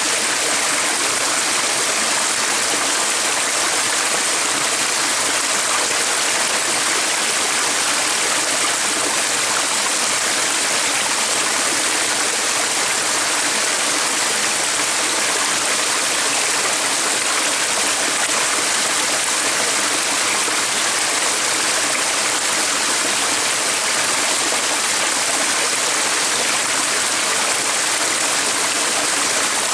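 Running water of a stream, a steady, unbroken rushing.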